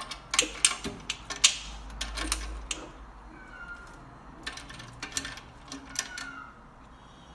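A cat with a run of sharp clicks and knocks, in two clusters, and two brief faint cries in between.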